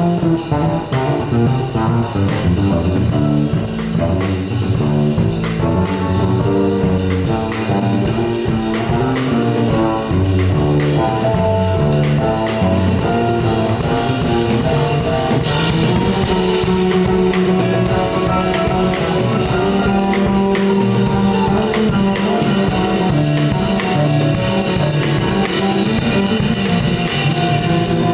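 Live jazz band of piano, saxophone, electric guitar, bass and drums playing an up-tempo instrumental, with the guitar standing out over a steady drum beat.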